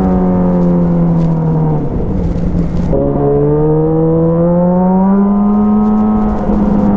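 Motorcycle engine running through an aftermarket Avionic exhaust. The exhaust note falls as the revs drop, breaks off for about a second, then climbs again under acceleration and holds.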